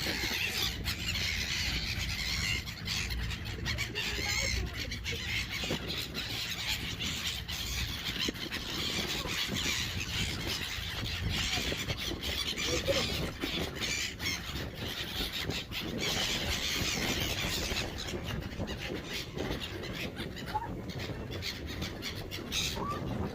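A flock of seagulls squealing and squawking, many calls overlapping as they crowd in to be fed, over a steady low rumble.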